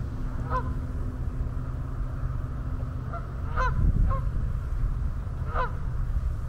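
A bird gives short calls, about five in all, with the loudest cluster in the middle. Under them runs a steady low rumble.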